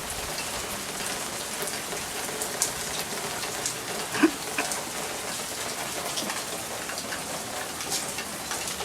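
Steady rain falling, with individual drips splashing close by, and one brief sharp pitched sound about four seconds in.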